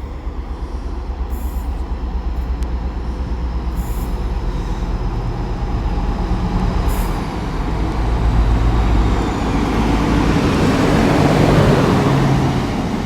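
Class 60 diesel-electric locomotive hauling a heavy loaded ballast train as it approaches: a low engine drone and rail rumble grow steadily louder and are loudest near the end.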